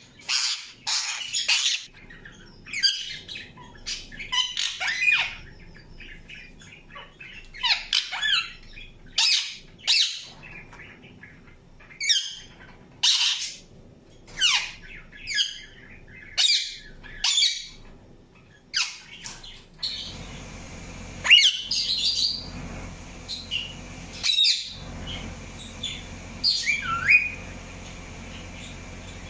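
Indian ringneck parakeet giving short, shrill chirps and squawks, one every second or two, some with a sharp falling note. A steady low hum comes in about two-thirds of the way through.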